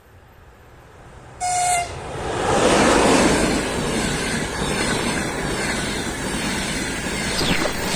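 A train sounds a short single-pitch horn blast about a second and a half in, then passes close by with loud, steady rushing wheel and rail noise. Near the end, faint falling whines come through the noise.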